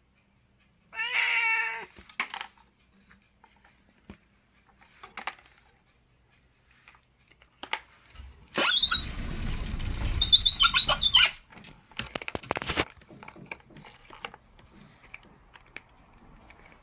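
A cat meows once about a second in. Around the middle comes a louder noisy stretch of about three seconds with a low rumble, then scattered small knocks and clicks.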